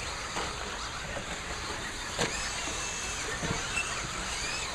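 Radio-controlled stock trucks racing on the track, their motors whining with a pitch that rises and falls as they speed up and slow down. A sharp knock comes about two seconds in.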